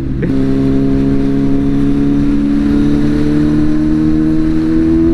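Kawasaki superbike engine with an Akrapovic exhaust pulling steadily under power, its pitch rising slowly and evenly as the bike accelerates in one gear.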